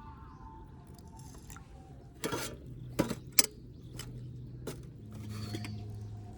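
A few sharp clicks and clinks of small hard objects being handled, about five strokes spread over a couple of seconds, with a faint low hum coming in near the end.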